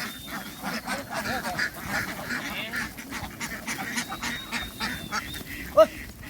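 A flock of ducks quacking in a dense, continuous chatter, with one sharp, louder call near the end.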